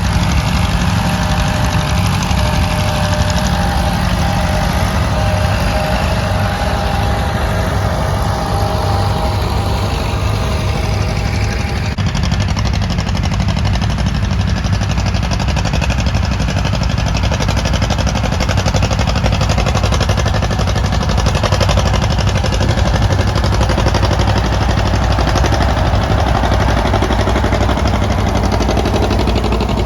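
Antique farm tractor engines running steadily under load while pulling plows through bean stubble. A higher steady tone sits over the engine drone and stops about twelve seconds in.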